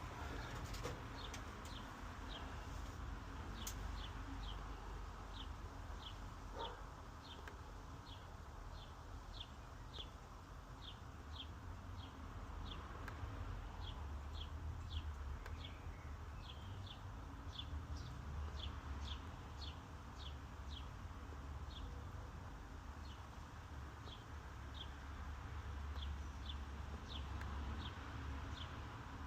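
Home-built Arduino-controlled CNC router running a carve into a bamboo coaster: a steady low hum with faint steady tones throughout.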